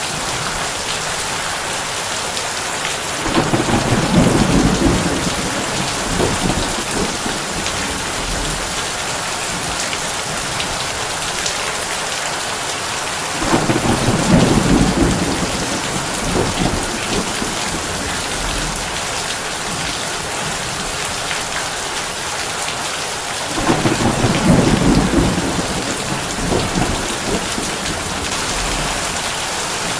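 Heavy rain falling steadily on a tin roof, an even hiss, with three low rolls of thunder about ten seconds apart, each rumbling for a few seconds.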